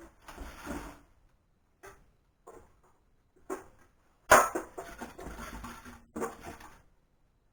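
Knocks and scrapes of band saw parts being handled as the machine is dismantled: a few short knocks, then a sharp knock about four seconds in followed by more than a second of scraping, and a last scrape near the end.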